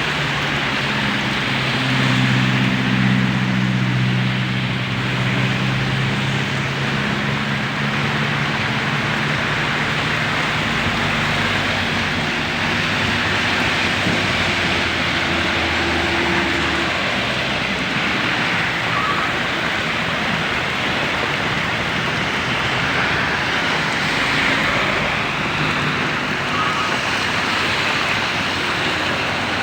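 Heavy rain and strong wind, with road traffic going by on wet tarmac. A vehicle engine hums through the first dozen seconds, then fades.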